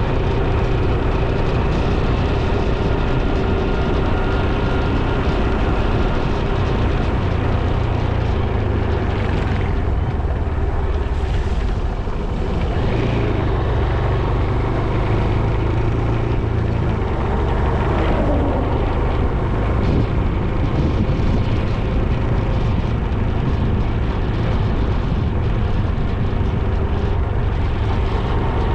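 Motorcycle ride on a road: a steady engine drone under a heavy, continuous wind rumble on the microphone.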